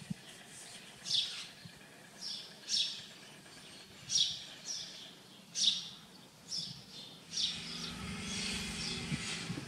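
Small birds chirping in short repeated calls, roughly one a second. A low, steady engine hum starts about seven seconds in.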